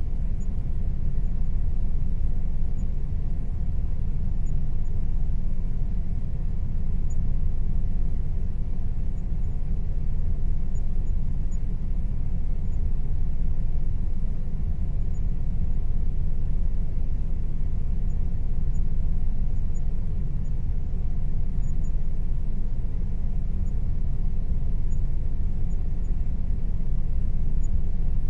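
Air conditioner running steadily: a continuous low rumble with a faint steady hum above it.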